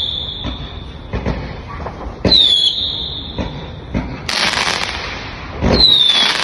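Fireworks going off: sharp bangs, with a high falling whistle about two seconds in and again near the end, and a loud hissing crackle about four seconds in.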